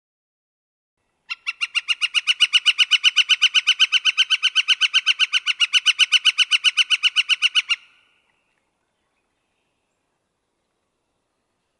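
Northern flicker giving its laughing call: a long, rapid series of evenly spaced notes on one pitch, about seven a second, lasting some six seconds and stopping abruptly.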